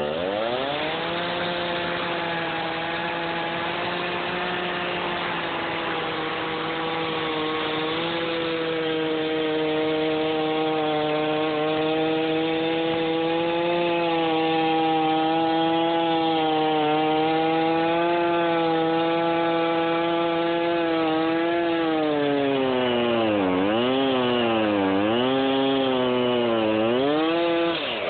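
Chainsaw revving up and cutting into a log at high, steady revs. Near the end its pitch dips and recovers several times as it bogs in the cut, then it drops back as the throttle is let off.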